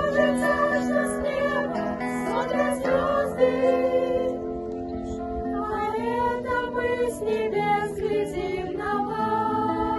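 A children's vocal ensemble singing a ballad together, with long held notes.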